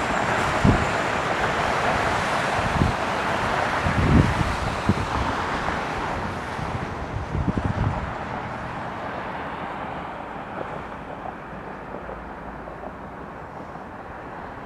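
Jet airliner's engine noise, a steady rush that slowly fades away, with wind gusts buffeting the microphone in the first half.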